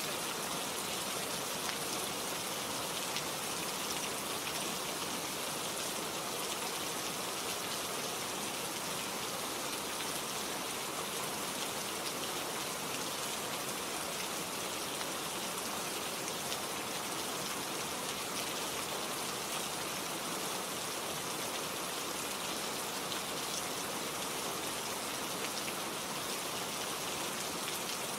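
Steady rainfall with fine drops pattering on surfaces, an even hiss throughout.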